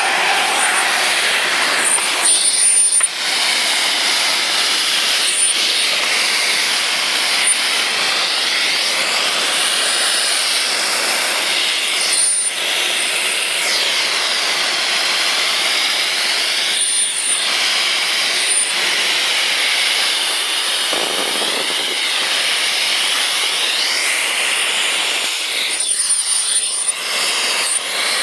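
Festool CTM 55 dust extractor running with a steady loud rush of air and motor whine. The airflow changes briefly every few seconds, as the nozzle or hose is moved.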